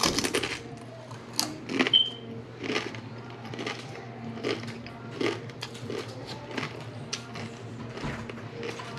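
Close-up chewing of a crunchy fried tortilla chip dipped in salsa. There is a loud crunch at the bite at the start, then uneven crisp crunches about once or twice a second.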